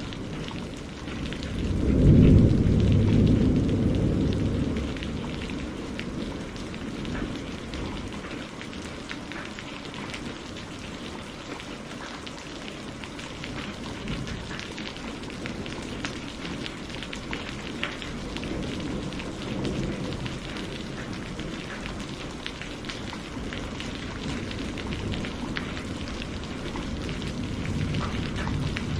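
Steady rain pattering, with a loud rumble of thunder about two seconds in that fades over a few seconds, and fainter rolls of thunder later and near the end.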